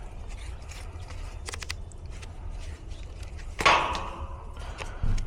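Handling noise from work on an air conditioner's capacitor and contactor: light clicks and taps over a low steady rumble, with one louder clank about three and a half seconds in and a duller knock near the end.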